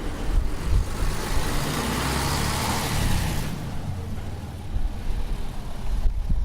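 Isuzu U-LV224N bus's 6QB2 diesel engine running, heard from inside the cabin as a steady low rumble. A rushing hiss swells and fades over the first few seconds.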